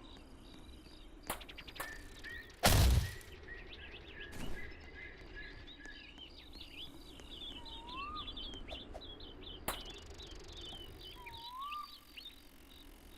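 Birds chirping over outdoor ambience, with a whistled up-and-down note heard twice. A brief, loud burst of noise about three seconds in is the loudest sound.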